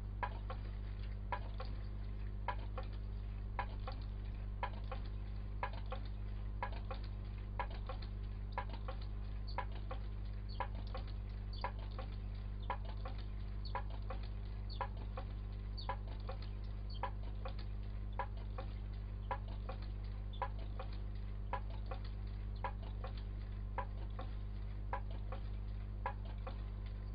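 Homemade large-flywheel Stirling engine running slowly and steadily, its mechanism ticking about twice a second with louder and softer clicks alternating, over a steady low hum.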